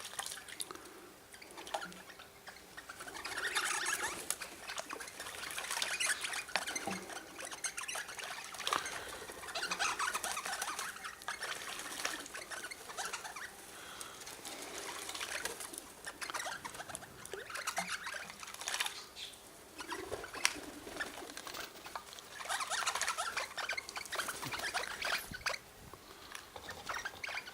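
Birds at a seed feeder: scratchy chattering calls mixed with rustling and scrabbling, coming in irregular spells.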